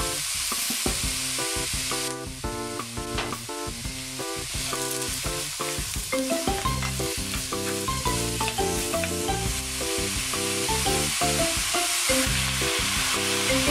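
Mushrooms sizzling in oil in a frying pan as they are stirred with chopsticks, the sizzle flaring up near the end as sake is poured in. Background music with a melody of stepped notes plays throughout.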